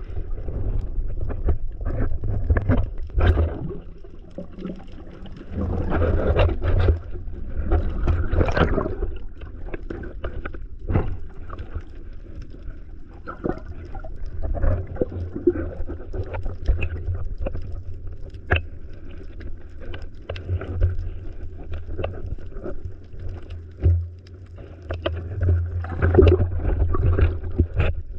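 Sea water sloshing and gurgling up close, with a constant deep rumble and scattered small clicks and knocks.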